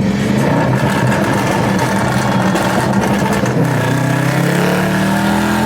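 Car engine running steadily, then its pitch climbs for about two seconds as it accelerates or revs and drops off abruptly near the end.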